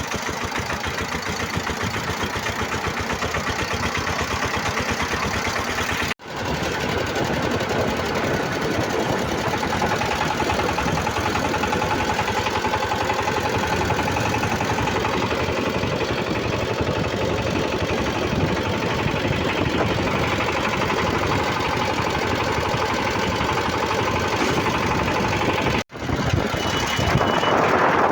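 Sigma Super 1110 single-cylinder 20 hp diesel engine of a votvoti motor van running with a fast, even knock. The sound drops out briefly twice, about 6 seconds in and near the end.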